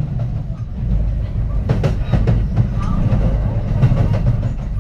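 Onboard running noise of a Kintetsu 3220 series electric train under way: a steady low rumble of wheels on rail, with a short run of clicks about two seconds in as the wheels pass over rail joints or points.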